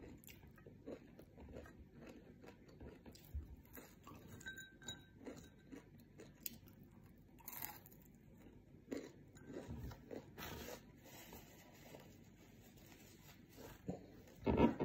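Close-up chewing and crunching of crispy fried anchovies and fried rice, with scattered small mouth clicks and smacks. A louder short knock comes near the end.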